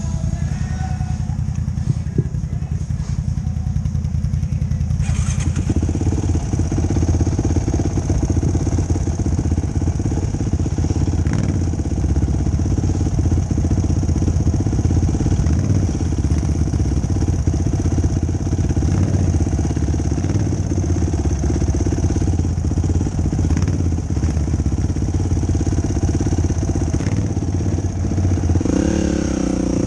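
Yamaha YFZ450 ATV's single-cylinder four-stroke engine running under way, picking up revs and load about five seconds in, then holding a steady pull.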